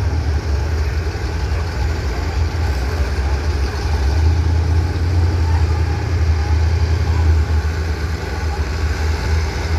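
Gas pickup truck engine idling with a steady low rumble, not revving.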